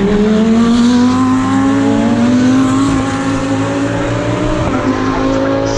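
GT3 race car engine accelerating, its pitch climbing slowly and steadily. A second engine note joins near the end.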